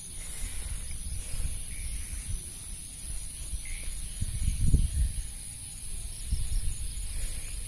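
Crickets keep up a steady high-pitched drone. Under it come low rustling and handling bumps from moving through the field, loudest about halfway through.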